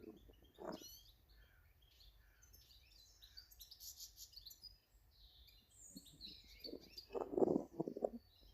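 Small garden birds chirping and calling in short high notes, with a brief cluster of close, low knocks about a second in and a louder run of knocks near the end.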